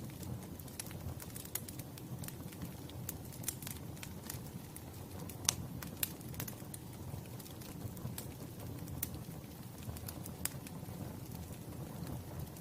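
Wood fire burning: a low steady rumble with irregular sharp crackles and pops throughout, one louder pop about five and a half seconds in.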